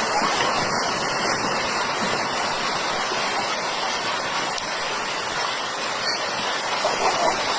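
Steady rushing noise of moving water.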